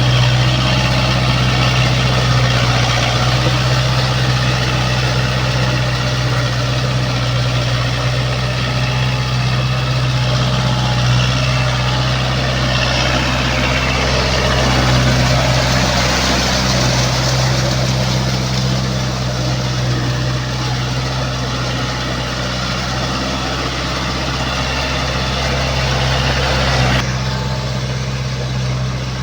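Kubota four-wheel-drive tractor's diesel engine running steadily while working a rotavator, with a dense mechanical clatter over the engine note; part of the higher noise drops out abruptly near the end.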